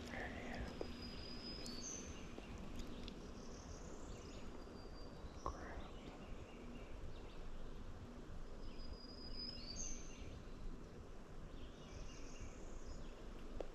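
Spring woodland ambience: songbirds singing short, high phrases several times over a steady background hiss, with a faint continuous low hum.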